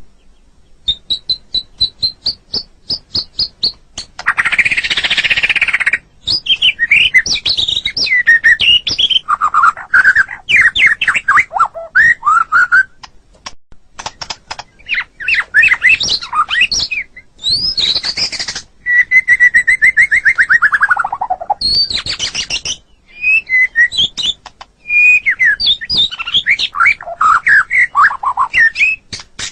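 White-rumped shama (murai batu) singing a long, varied song. It opens with a fast run of high notes and a harsh, noisy burst about four seconds in, then moves through rich whistled phrases and quick trills, including a long falling series of notes about two-thirds of the way through.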